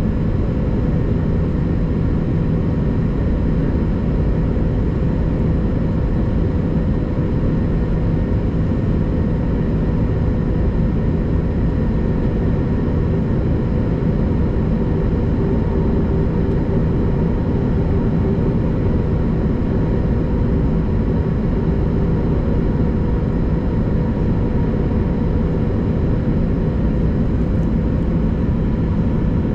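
Airbus A330-200 jet engines and airflow making a loud, steady drone with several constant hum tones, unchanging throughout.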